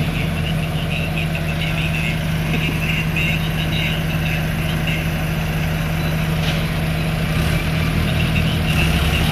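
Diesel tractor engine running steadily at an even, low pitch.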